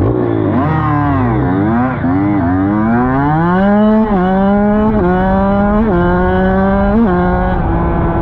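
Dirt bike engine revving up and down, then accelerating through the gears. The pitch climbs and dips briefly at each of about four shifts before it settles.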